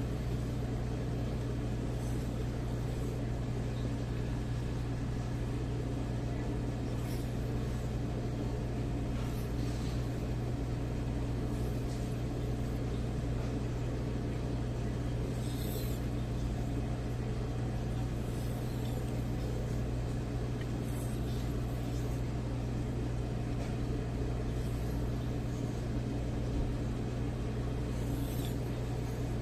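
A steady low hum, like a running motor or mains hum, with a few faint, brief light ticks now and then.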